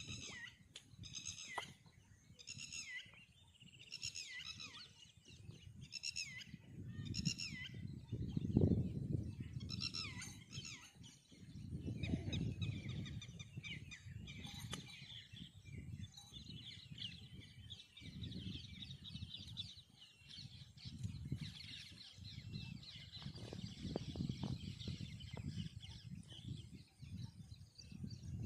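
Birds calling outdoors: short high chirping calls repeat about once a second at first, then become a denser, overlapping chatter, over a low rumble.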